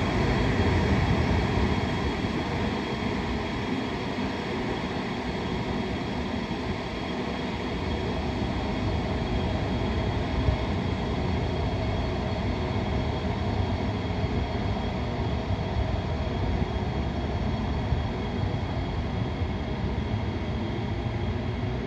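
Taiwan Railway E500-class electric locomotives E547 and E548 running out of a station as a light test train. Wheels rumble steadily on the rails under a faint motor and fan hum, easing slightly in the first few seconds and then holding steady.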